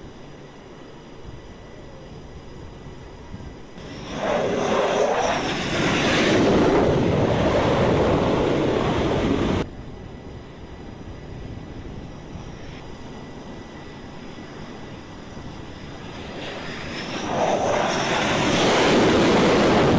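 Carrier-deck jet aircraft engines at high power, twice swelling up loud with a whine over a noisy rush. The first cuts off suddenly after about five seconds; the second builds in the last few seconds.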